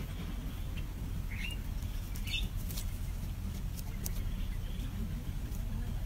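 Small birds chirping faintly at a nest with young, two short high chirps about a second and a half and two seconds in, over a steady low rumble, with a few sharp clicks.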